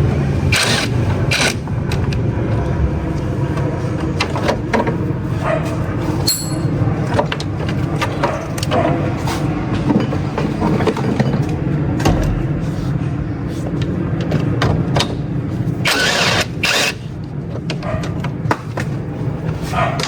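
An engine running steadily, with scattered knocks and clanks over it.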